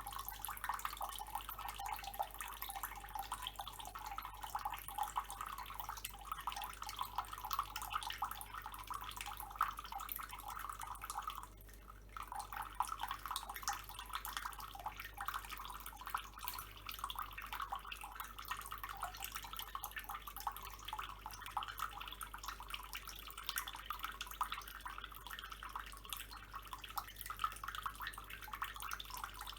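Water running from a tap in a thin stream and splashing into a basin, with a brief break about twelve seconds in.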